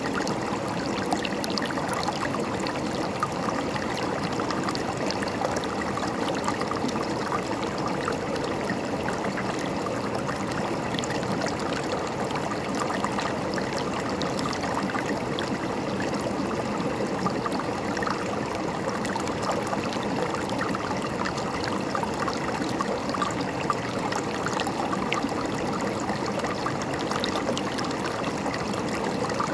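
A river's running water, a steady babbling flow with fine splashes and trickles throughout.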